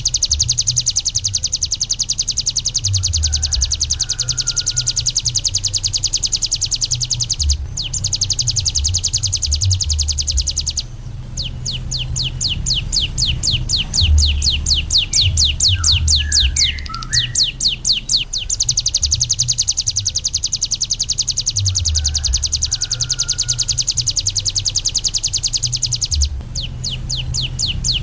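Ciblek gunung singing a long, very rapid high-pitched trill, the fast buzzing run songbird keepers call ngebren. Near the middle the notes slow into a string of distinct quick chirps, and the song breaks off twice for a moment. A low rumble runs underneath.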